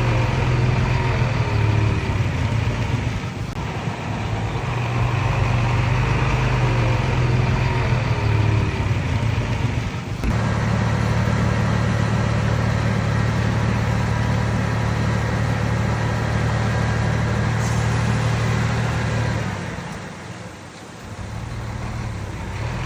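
Heavy diesel engine of earthmoving machinery running steadily with a deep hum. The sound changes abruptly about ten seconds in and drops in level briefly near the end.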